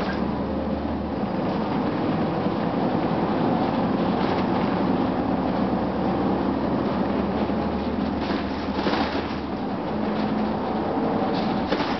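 2004 Gillig Phantom transit bus under way, heard on board: its Cummins ISM diesel engine runs with a steady rumble and road noise, with the HVAC on and a few brief rattles.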